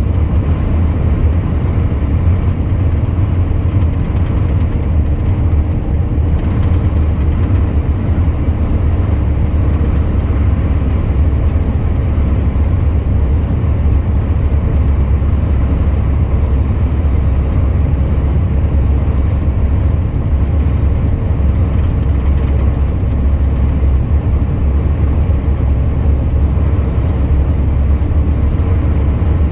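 Truck on the move: engine and road noise as one steady low drone, with no change in pace.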